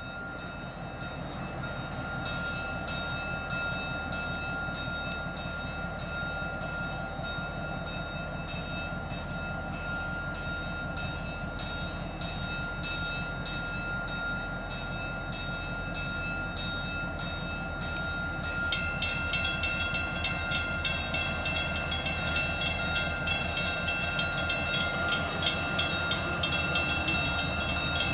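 Diesel locomotive running as it pulls a passenger train slowly toward a grade crossing, a steady low rumble with a steady tone above it. About two-thirds of the way in, the crossing signal's bell starts ringing rapidly and evenly as the gates come down.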